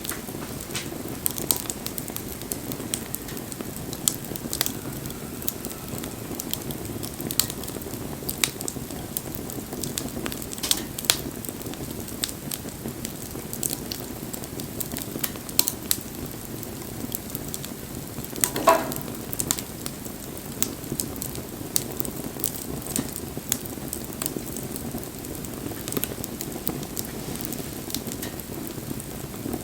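Wood fire burning with a steady low rush and frequent sharp pops and crackles. A short squeal about two-thirds of the way through is the loudest sound.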